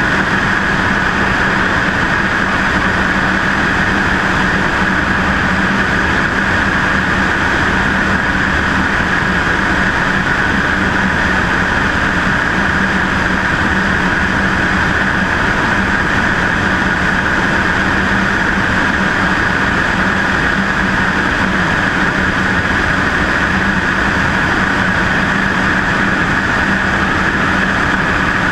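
Steady, unchanging drone of a Cessna 152's four-cylinder piston engine and propeller, mixed with airflow rush, heard from a camera mounted on the left wing.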